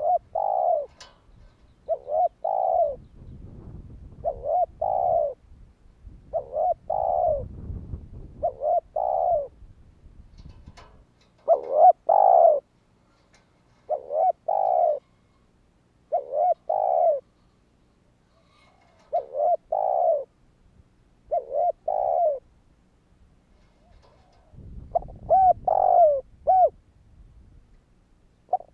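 Spotted dove cooing, short phrases of two or three notes repeated about every two seconds.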